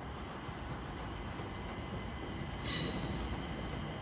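London Overground Class 378 electric train approaching, its wheels rumbling steadily on the rails, with a short high wheel squeal near the end.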